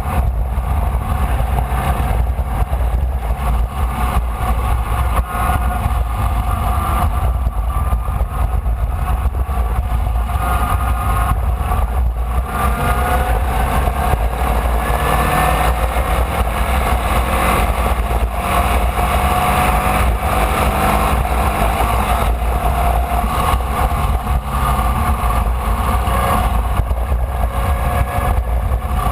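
Formula Vee's air-cooled 1200 cc Volkswagen flat-four running at race speed, heard onboard over a heavy low rumble. About twelve seconds in, the engine note climbs steadily as the car accelerates, then climbs again a few seconds later.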